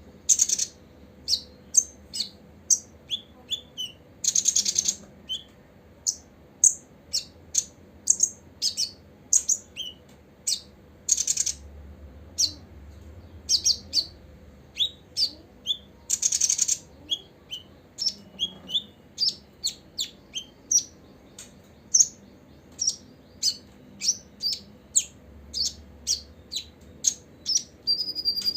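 Copper-throated sunbird calling: a quick run of short, high chirps, about one or two a second, broken a few times by a longer buzzy trill lasting about a second.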